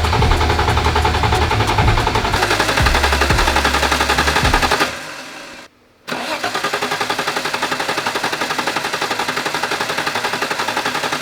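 Starter motor cranking the R31 Skyline's engine in a fast, even rhythm without it catching, in two attempts with a short pause between them. The crew suspects the car is out of fuel.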